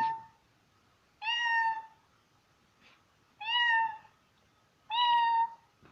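A dog making short, high, whining calls: three held at a steady pitch, about two seconds apart, after the tail of one at the start.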